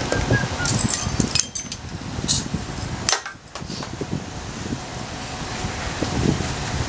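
Flint and steel struck a few times to throw sparks, a cluster of sharp scraping strikes about a second in and a couple more around two to three seconds in, over a steady rustle of wind and leaves.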